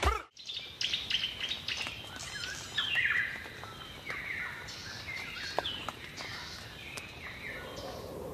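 Birds chirping and singing: many short calls, several with a quick falling pitch, over a faint steady outdoor background.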